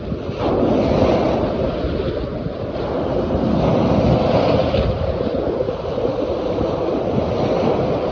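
Hudson River water washing and splashing in a steady, uneven rush that surges a little about half a second in.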